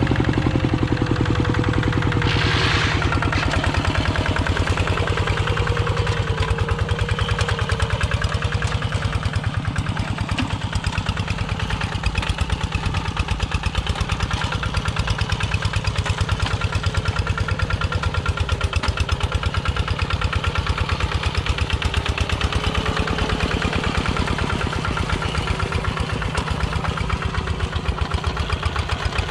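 Kubota two-wheel walking tractor's engine running steadily with a rapid, even chugging beat. There is a short hiss about two and a half seconds in.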